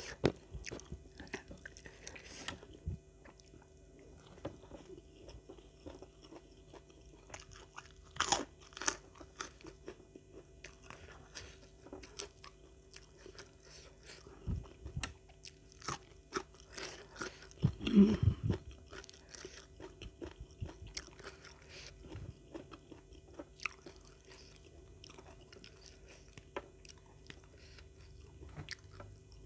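Close-miked eating sounds: chewing and crunching bites of raw young petai (stink bean) pods eaten with rice, a scatter of short wet clicks and crunches. The loudest bites come about 8 and 18 seconds in.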